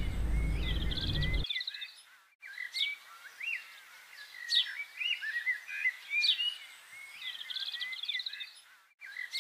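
Small songbirds chirping and twittering: short rising and falling calls and a quick trill, repeating again and again. A low steady hum underneath cuts off suddenly about a second and a half in.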